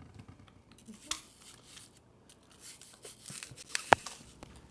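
Crisp crunching of a Honeycrisp apple being bitten and chewed: a run of small sharp crackles, busier in the second half, with one loud snap near the end.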